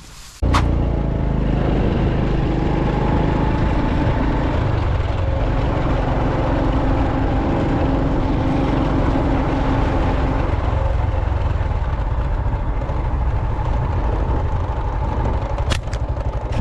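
An engine running steadily with a low rumble, starting abruptly about half a second in.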